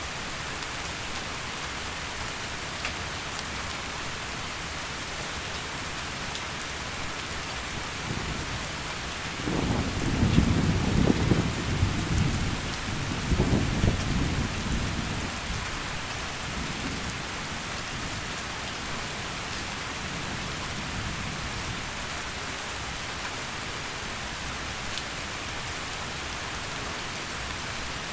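Steady heavy rain hissing, with a roll of thunder rumbling in about nine seconds in, peaking twice over the next five seconds and fading away.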